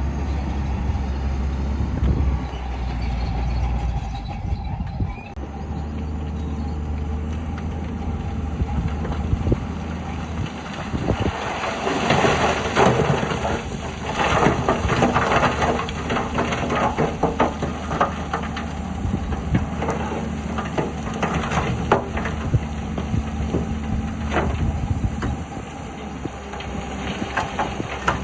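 Heavy diesel earthmoving machinery, a bulldozer and dump trucks, running steadily. From about eleven seconds in, dense clattering and scraping of rock and metal joins the engine sound.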